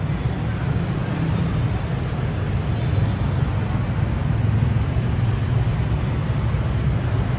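Steady street traffic noise with a constant low rumble.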